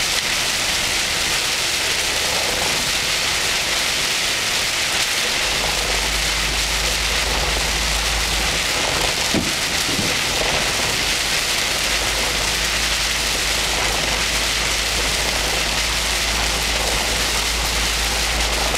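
Heavy rain pelting a moving vehicle's windshield in a downpour, a steady dense hiss. A low rumble joins in about five seconds in.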